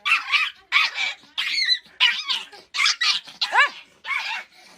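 A small dog barking rapidly, about three short yaps a second, with one longer rising-and-falling yelp about three and a half seconds in.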